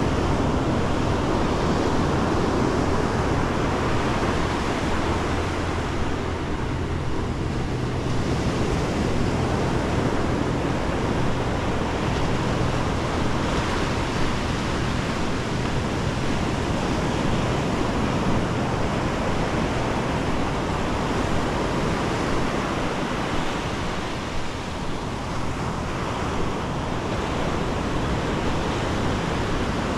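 Ocean surf breaking and washing up the beach: a steady, continuous rushing wash of waves.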